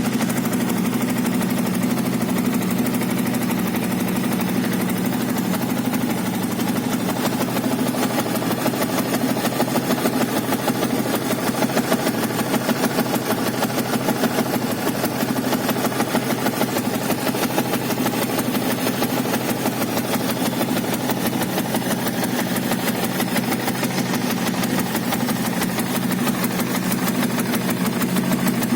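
Yamaha Vixion's single-cylinder 150 cc four-stroke engine idling steadily through a fitted Suzuki Satria FU muffler, with a note close to the stock exhaust.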